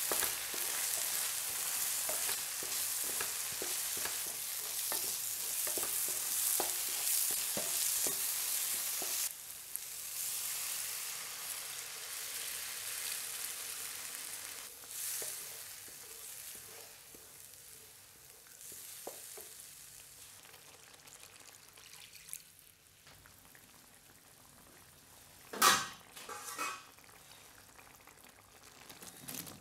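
Spice powders frying in hot oil in a nonstick pan, sizzling loudly while a wooden spatula stirs and scrapes. The sizzle dies down once water is poured in, leaving a quiet simmer. Two short loud sounds come near the end.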